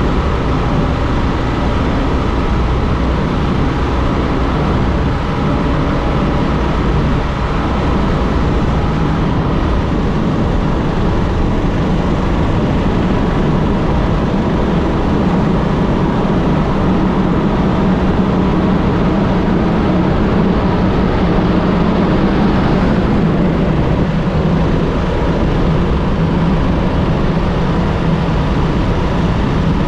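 Steady noise of a vehicle under way: an engine drone with road noise, holding at much the same level throughout.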